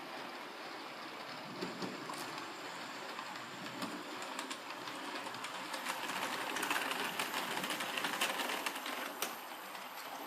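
Hornby model train running on its track: a steady motor whirr and wheel noise with scattered clicks over the rail joints. It grows louder about six seconds in as the train comes nearer, then eases off near the end.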